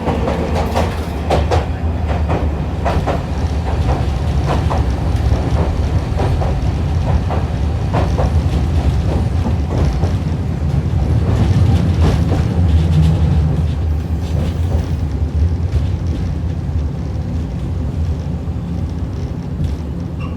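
Hiroshima Electric Railway 650-series tram No. 652 running, heard from inside the car: a steady low rumble with repeated sharp clicks and knocks from the wheels on the track, frequent in the first half and sparser later.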